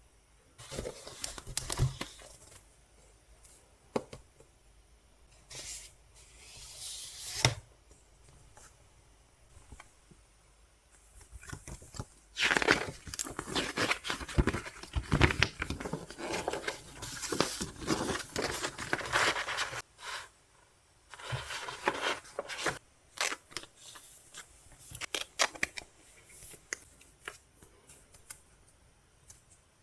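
K-pop album packaging being unwrapped and handled: plastic and paper tearing and crinkling in irregular bursts, with small clicks of cardboard and cards. It is busiest in the middle and sparse near the start and end.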